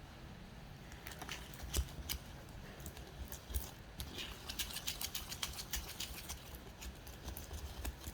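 Glitter slime being stirred in a bowl with a mixing tool just after the contact-solution and baking-soda activator has gone in: quiet, irregular clicks and taps of the tool working the thickening slime, coming thickest about halfway through.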